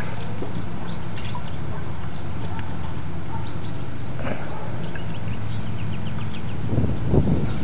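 Pond waterfall splashing steadily, with birds chirping over it and a brief low rumble near the end.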